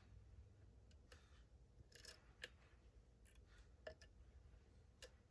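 Faint, irregular clicks and scrapes of a lock pick working the pin stack of a high-security lock cylinder under tension, about half a dozen small ticks spread over a few seconds.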